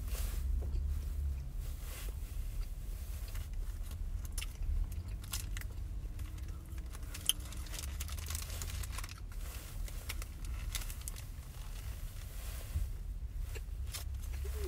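A person chewing a burger close to the microphone, with soft mouth clicks and crunches and the paper wrapper crinkling now and then, over a steady low rumble inside the car.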